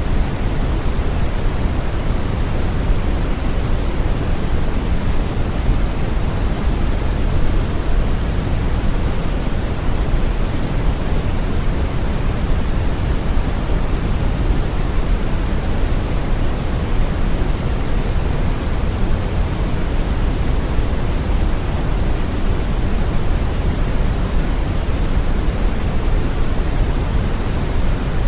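Steady, unchanging brown noise: a deep, even rush with most of its energy in the low end, falling away toward the highs, with no tones or events.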